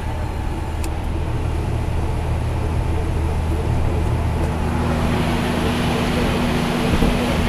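Scania truck's diesel engine running on the road, a steady low drone; a hiss builds from about halfway and a higher steady hum joins about five seconds in.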